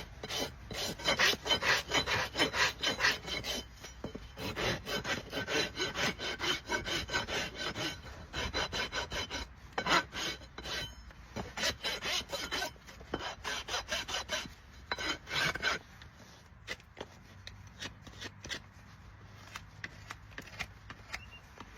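Farrier's hoof rasp filing a shire horse's hoof in rapid scraping strokes, which thin out and grow quieter about three-quarters of the way through.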